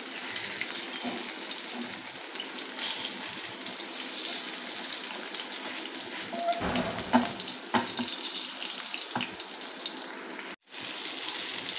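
Chicken kababs shallow-frying in oil in a non-stick pan, a steady sizzle. A few knocks and scrapes come about seven to nine seconds in as the kababs are turned in the pan. The sound cuts out for a moment about ten and a half seconds in.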